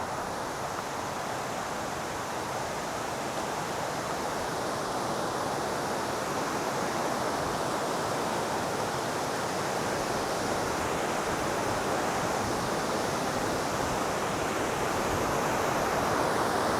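Steady rush of flowing water, growing slowly louder.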